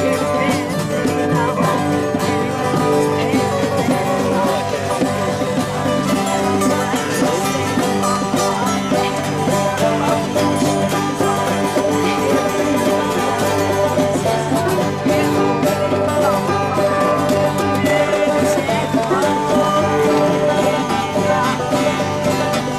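Live acoustic band playing fast on one chord, with banjo and guitar strummed and picked hard over a steady droning bass.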